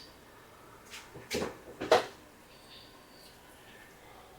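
Three short knocks about one to two seconds in, the last a loud clunk: a baking dish going into the oven and the oven door shutting.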